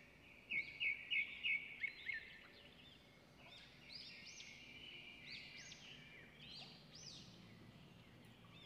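Small birds chirping faintly: a quick run of chirps in the first couple of seconds, then scattered short calls that rise and fall in pitch.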